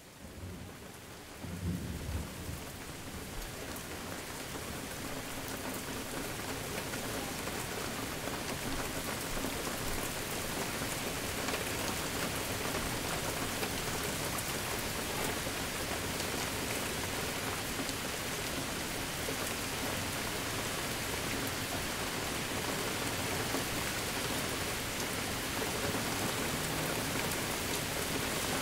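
Steady rain falling, fading in at the start, with a short low rumble of thunder about two seconds in.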